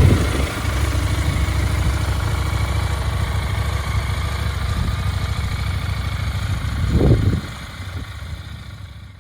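KTM 990 Duke's parallel-twin engine idling steadily, with a short louder burst about seven seconds in, after which the engine sound drops away and fades out.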